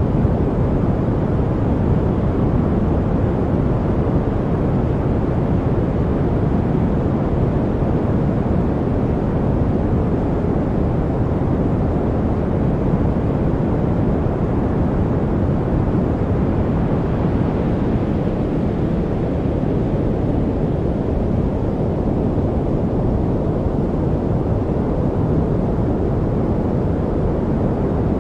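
Steady noise played for studying, even and unchanging, weighted toward low pitches with little hiss at the top.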